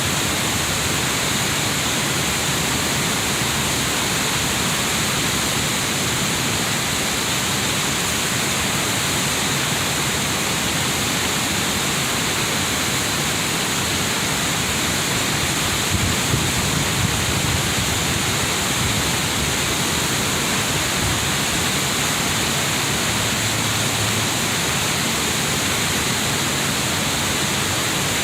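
Waterfall on a river, a loud, steady rush of falling water.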